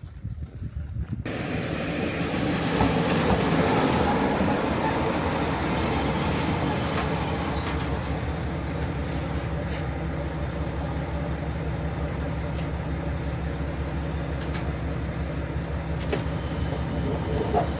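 Diesel railcar running along the line, a steady low engine drone under continuous rolling rail noise, swelling over the first couple of seconds and then holding even.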